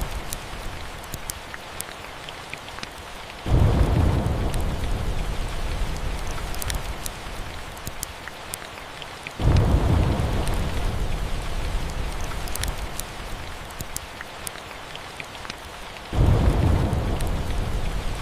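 Steady rain with three low rolls of thunder, each coming in suddenly and fading away over a few seconds, about six seconds apart. Scattered sharp ticks run through the rain.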